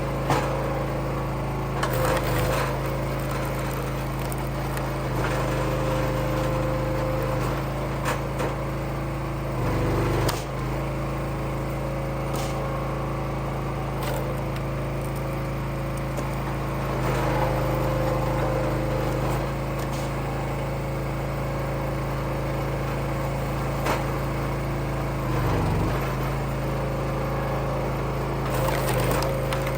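Gas engine of a Wolfe Ridge hydraulic log splitter running steadily, with scattered cracks and knocks of firewood being split. The engine note dips briefly twice, about ten seconds in and near twenty-five seconds, as it takes load.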